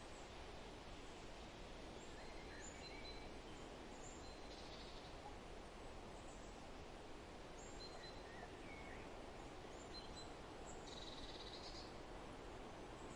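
Faint forest ambience: a steady soft rushing background with scattered short, high bird chirps and calls, and one buzzy call about eleven seconds in.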